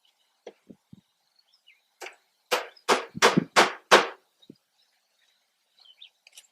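Hammering: a few light taps, then five quick, sharp blows at about three a second.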